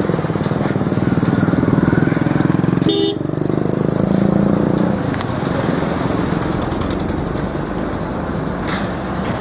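Road traffic: a vehicle engine passes close with a pulsing rumble that builds and then fades after about five seconds, with a short horn toot about three seconds in. Steady road noise follows.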